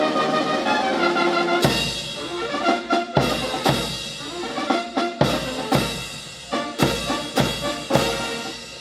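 Brass band playing: a held brass chord, then from about a second and a half in, heavy drum strokes land every half second to second and a half, with brass sounding between them.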